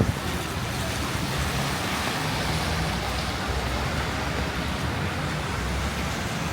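Steady road traffic in heavy rain: a low rumble of vehicles under an even rain hiss.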